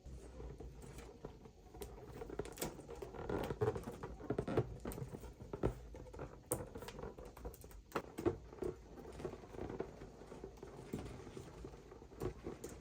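Irregular light tapping, clicking and rustling from objects being handled, with sharper knocks scattered throughout.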